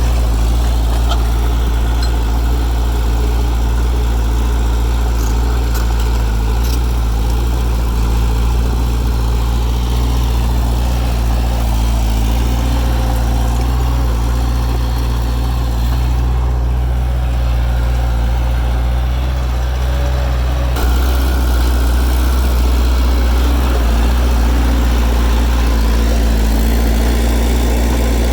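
Bulldozer's diesel engine running steadily with a deep drone, getting a little louder about three quarters of the way through.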